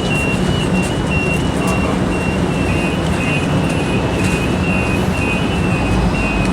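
A CTrain light rail car running, heard from inside as a steady rumble and rush with a low hum. A faint high tone keeps stepping back and forth between two close pitches.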